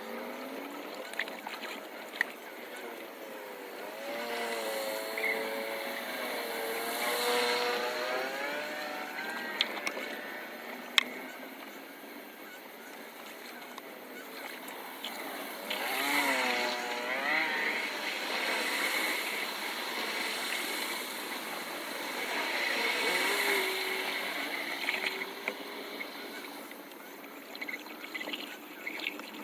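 Engines of vehicles going by on a flooded street, their pitch rising and falling as each one passes, about three times, over a steady wash of noise, with a few sharp clicks about ten seconds in.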